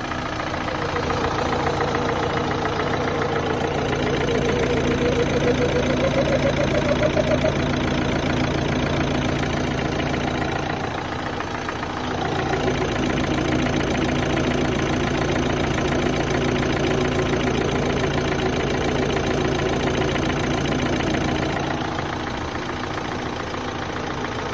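Opel Astra 1.7 CDTI four-cylinder turbodiesel idling, with a strange noise from an unidentified part in the background that the owner hears whether the engine is warm or cold. Over the steady running, a mid-pitched tone wavers and rises, and a deeper hum drops out briefly about halfway through and again near the end.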